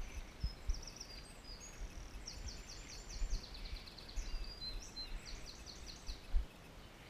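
A songbird singing a varied song of quick runs of high repeated notes and short trills, over a low outdoor rumble with a few low thumps, the loudest about six seconds in.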